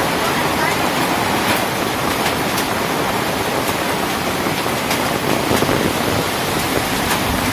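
Heavy rain pouring down in a dense, steady hiss, with scattered ticks of drops striking close by and a brief swell about five and a half seconds in.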